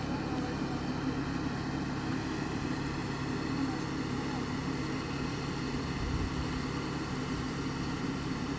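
A steady, even motor drone, holding one pitch throughout.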